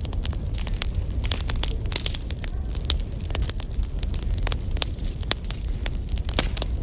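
Wood fire crackling: dense, irregular pops and snaps of burning firewood over a steady low rumble.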